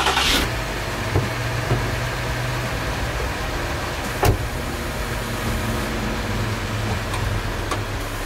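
Jeep Grand Cherokee's engine idling steadily, after a loud burst right at the start. A few sharp clicks come over it, the loudest about four seconds in.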